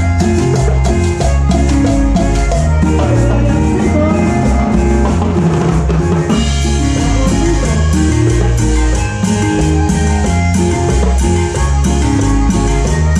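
Instrumental passage of a band's song: drum kit with snare and bass drum over a bass line and other pitched instruments, with no singing. About six seconds in, the cymbals come in brighter.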